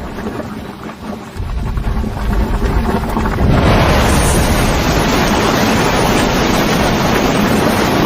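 Loud steady rushing noise, like strong wind or crashing water, building up about one and a half seconds in and again about three and a half seconds in.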